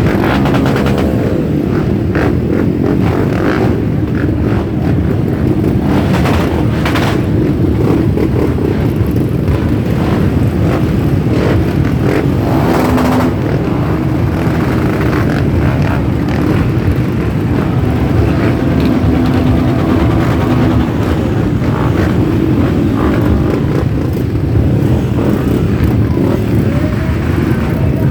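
A group of motorcycles riding out together, many engines running loud and steady, with a few engines revving up and down as bikes pass, around the start, the middle and about two-thirds of the way through.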